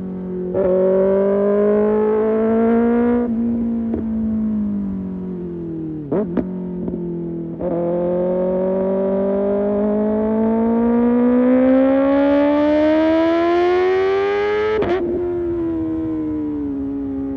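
Kawasaki ZX-6R inline-four through an Arrow Pro Race exhaust under riding load. It pulls briefly, then falls in pitch off the throttle, with sharp cracks about six seconds in. A long pull rises steadily in pitch for about seven seconds, then the pitch drops suddenly with a crack at an upshift about fifteen seconds in, and the engine pulls on at the lower pitch.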